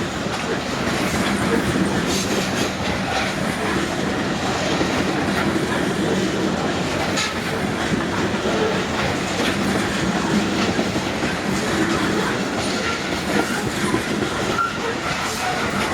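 Loaded freight cars of a 100-car unit train rolling steadily past, steel wheels clicking and clattering on the rails.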